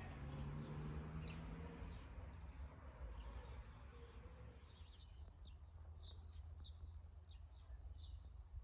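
Small wild birds chirping and calling in short, repeated notes, with one whistled glide about a second and a half in, more frequent in the second half, over a steady low rumble of outdoor noise.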